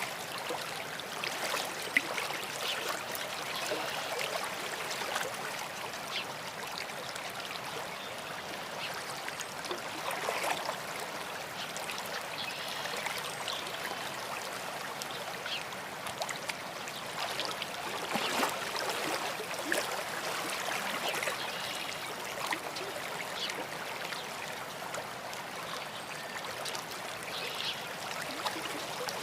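Stream babbling and trickling over stones, steady throughout, with songbirds calling now and then above the water.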